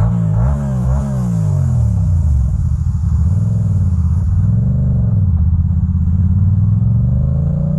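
Motorcycle engine running as the bike rides, its pitch rising and falling repeatedly with the throttle.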